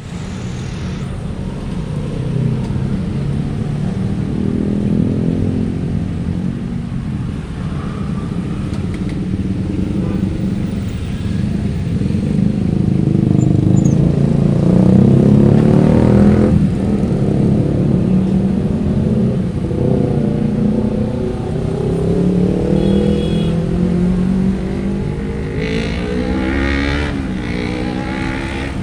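Road traffic: motorcycles and cars passing close by, their engines rising and falling in pitch, loudest about halfway through.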